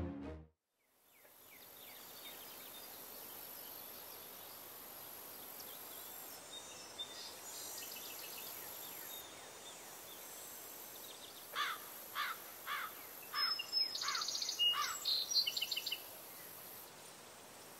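The tail of a music cue cuts off at the start, leaving quiet outdoor ambience with a steady high hiss. About twelve seconds in, a bird calls a series of about six quick falling notes, with higher twittering alongside for a few seconds.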